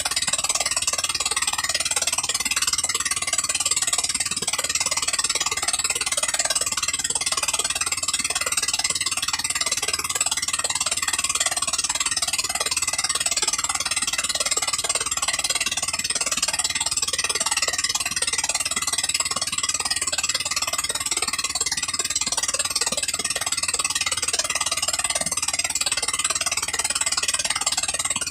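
A 13 hp gasoline engine running steadily at constant speed.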